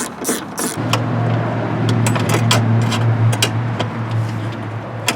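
Socket ratchet clicking in quick, even strokes as it backs a window-track bolt out of the car door. After under a second this gives way to a steady low motor hum with scattered metallic clicks and one sharp click near the end.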